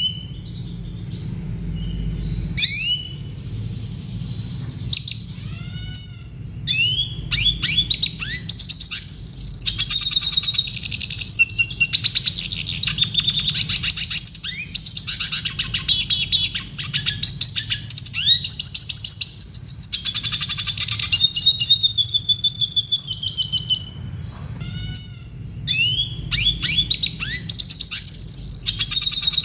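Red siskin singing: a rapid twittering song of fast trills and chirps mixed with downward-sweeping whistled notes, in phrases broken by short pauses, over a faint steady low hum.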